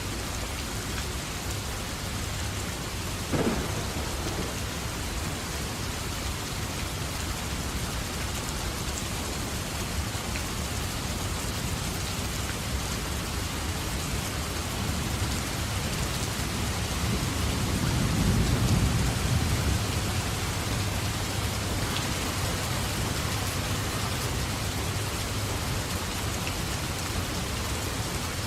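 Steady heavy rain in a thunderstorm. A sharp crack comes about three seconds in, and a low thunder rumble swells and fades a little past the middle.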